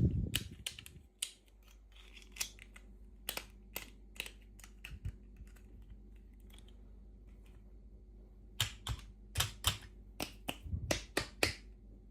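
Hands handling small plastic toy packaging in an unboxing: a bump at the start, then a series of sharp clicks and taps, a quieter stretch in the middle, and a quick run of about a dozen clicks near the end.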